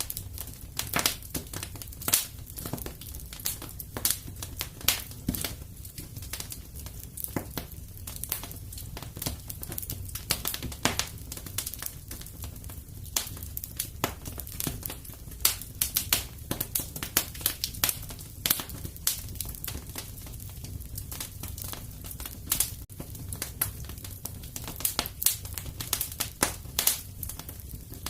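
Wood fire crackling and popping in a fireplace: irregular sharp snaps scattered throughout, over a steady low rumble of the burning fire.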